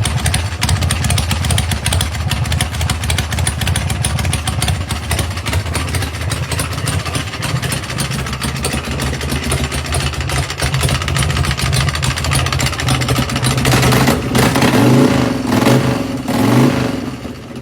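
A custom chopper's 120 cubic inch Ultima V-twin engine running at a steady, pulsing idle, then revved a few times near the end.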